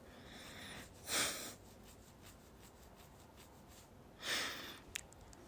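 A man breathing softly close to the microphone: two slow breaths about three seconds apart, with a faint click near the end.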